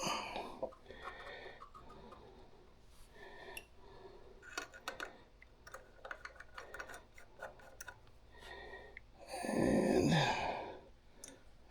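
Scattered light clicks and ticks as small carburetor parts and hand tools are handled while the jets are fitted back in, with one louder breath or sigh lasting about a second, about nine and a half seconds in.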